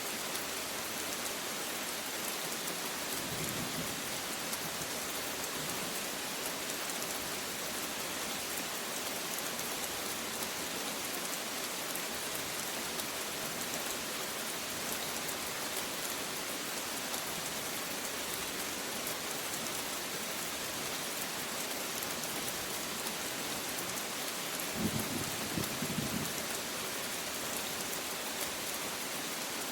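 Steady rain falling, an even hiss, with a short low rumble of thunder about 25 seconds in and a fainter one a few seconds after the start.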